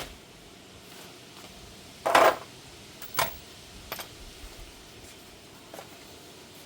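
Metal tools and parts clanking: one loud clatter about two seconds in, then a sharp knock a second later and a lighter click.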